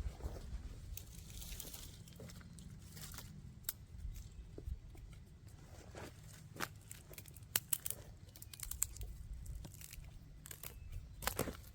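Scattered snaps, cracks and crinkles of cardboard and dry sticks at a campfire that is being started, irregular and unevenly spaced, over a low rumble.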